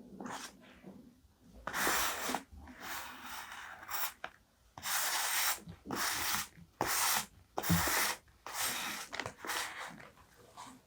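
Paper being handled for journaling, rubbed and rustled in a series of about eight short strokes.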